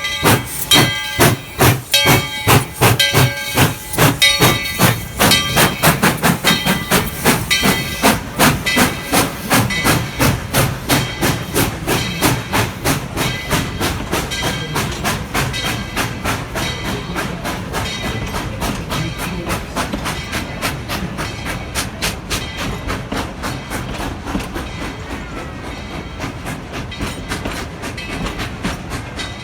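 Tweetsie Railroad #12, a narrow-gauge 4-6-0 steam locomotive, chuffing as it pulls away. The exhaust beats come steadily faster, from about two or three a second to about five, and grow fainter as it draws away. A high, steady pitched tone sounds over the chuffs for roughly the first ten seconds.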